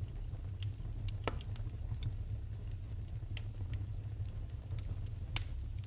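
Wood fire burning in a fireplace: a steady low rumble of flames with sharp crackles and pops at irregular moments, one of the loudest about a second in.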